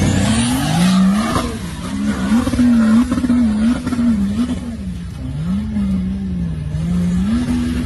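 Off-road 4x4's engine revving hard under full throttle, its pitch swinging up and down again and again as it climbs a loose, dusty slope. A spray of dirt hiss comes in the first second or so.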